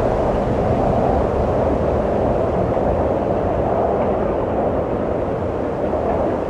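Wind blowing in a steady, even rush, easing off slightly toward the end.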